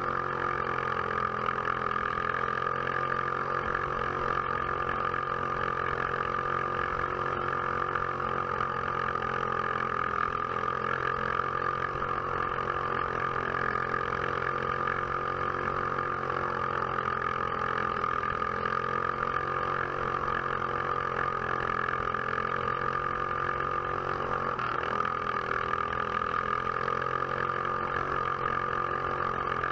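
Box Stock class racing kart engine running steadily at race speed, heard from on board the kart. The engine note holds nearly level, with a brief dip about 25 seconds in.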